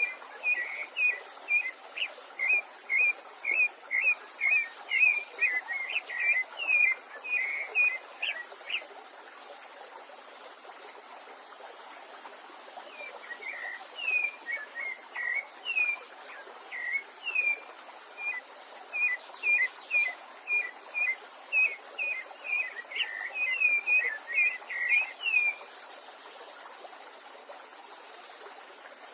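A songbird singing long runs of short, quick slurred notes, about two to three a second, pausing for a few seconds in the middle, over a steady hiss of flowing stream water.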